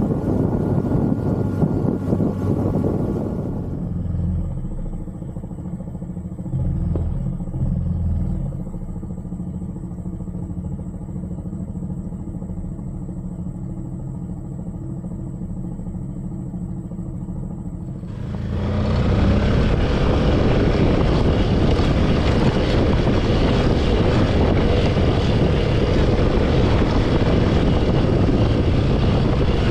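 Yamaha PG-1 small single-cylinder motorcycle being ridden. From about four seconds in its engine is heard as a steady low drone. From about eighteen seconds a loud rush of wind on the microphone covers it.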